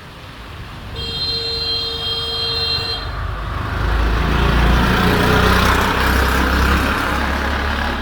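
A vehicle horn is held for about two seconds, then a motor vehicle passes close with a loud, rising engine and road rumble that peaks in the second half.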